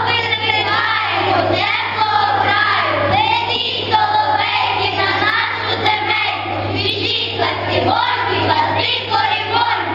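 A group of children singing together, with a steady low hum underneath.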